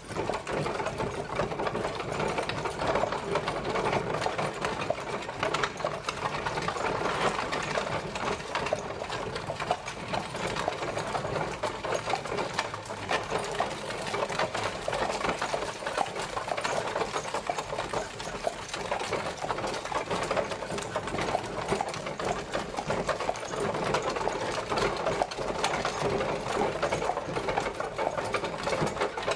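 Horse-drawn carriage travelling: a steady, dense rattle and clatter of the wheels and body.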